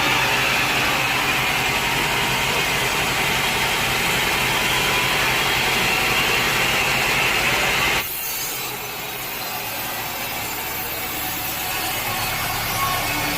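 Sawmill blade cutting through a log, a steady rasping noise. About eight seconds in it cuts off abruptly and gives way to a slightly quieter stretch of sawing.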